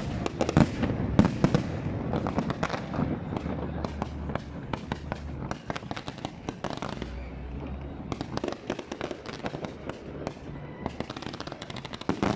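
Fireworks display: a continuous series of sharp bangs and crackles, with runs of rapid crackling late on.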